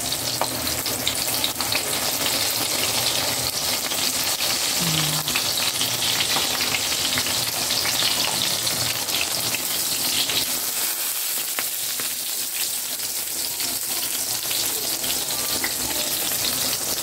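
Eggplant slices shallow-frying in hot oil in a pan, a steady sizzle throughout, with light clicks and scrapes of metal tongs moving the slices.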